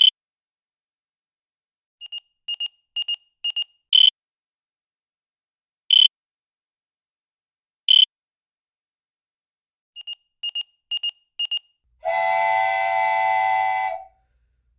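Quiz countdown timer sound effect: short high beeps every two seconds, with quick runs of four fainter beeps between, then a loud, long horn-like tone for about two seconds near the end, like a time-up signal.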